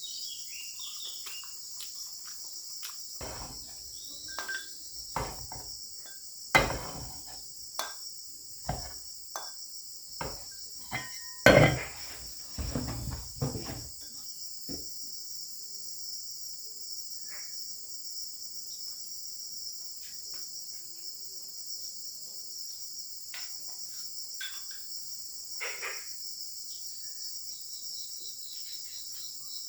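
A steady, high insect chorus, with a run of knocks and clatter through the first half, two of them much louder than the rest.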